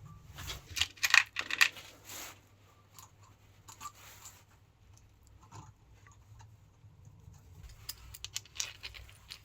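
Hand tools and metal parts being handled during car suspension work: a quick run of sharp clicks and scrapes about a second in, then scattered light clicks and ticks.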